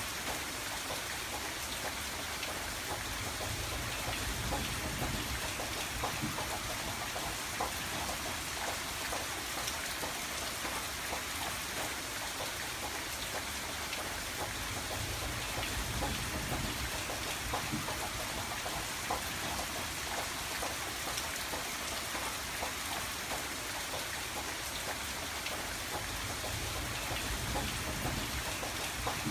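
Steady rain falling on a window, with many single drops tapping on the glass. A low rumble swells and fades about three times.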